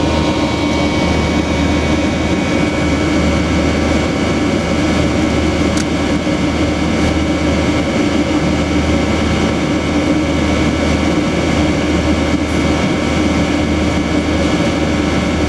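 Cabin noise of a Yakovlev Yak-42D airliner, its three rear-mounted Lotarev D-36 turbofans running steadily. A thin high whine and a low hum sit over a broad rush of noise.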